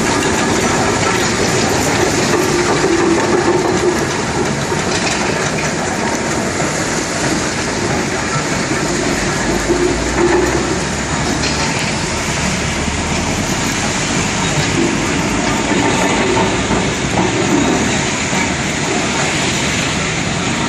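Steam tractor engine running, a loud, steady mechanical noise throughout.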